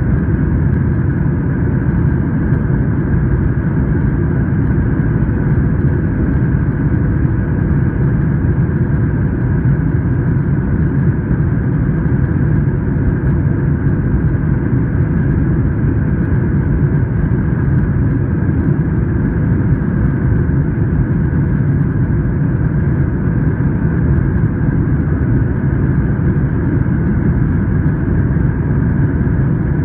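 Steady cabin noise inside a Boeing 737-900 airliner: its CFM56 turbofan engines and the airflow make an even, low rumble, with a few faint steady tones above it.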